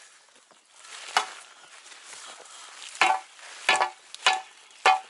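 Digging shovel chopping into the ground with sharp strikes that ring briefly like metal: one about a second in, then a steady run of four strikes, roughly one every 0.6 s, from about three seconds in.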